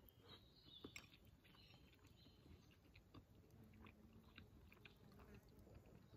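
Faint chewing of a mouthful of food, with a few small soft mouth clicks, against near silence.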